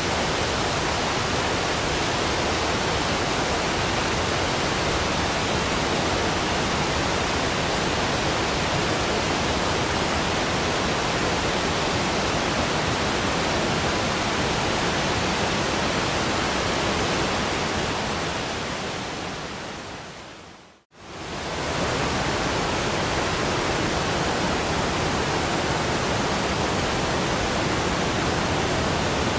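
Waterfall rushing in an even, steady wash. It fades down to near silence about seventeen to twenty-one seconds in, then comes back at once at full level.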